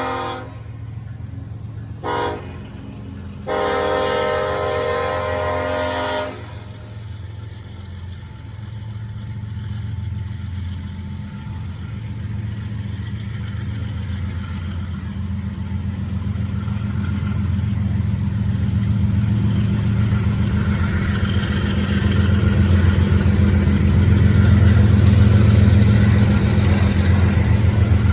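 Diesel freight locomotive horn sounding a short blast, then a long one ending about six seconds in, the close of a grade-crossing signal. Afterwards the locomotive's engine rumbles steadily and grows louder as the train draws near.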